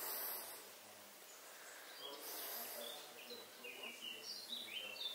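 Quiet ambient background noise with faint bird chirps, a cluster of short high calls in the second half.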